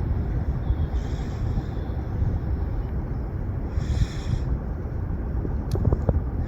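Low, gusty rumble of wind buffeting the microphone over the distant running of an Airbus A320's jet engines, with brief hissing swells about a second in and again about four seconds in.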